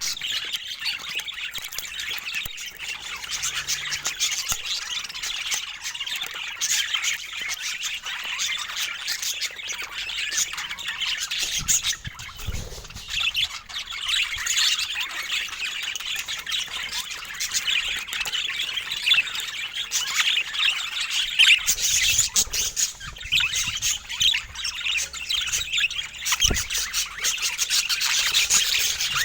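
Several budgerigars chattering together, a dense, unbroken twitter of chirps and squawks.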